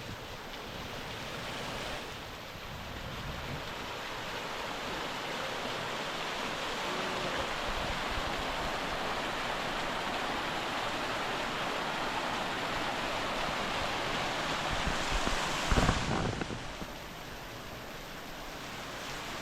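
Waterfall splashing down, a steady rushing noise with no let-up. Near the end a brief, loud low rumble rises over it.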